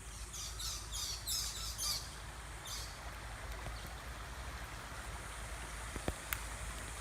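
Birds chirping in a quick series of calls for the first couple of seconds, over a steady rushing noise of flowing floodwater. A couple of faint clicks come near the end.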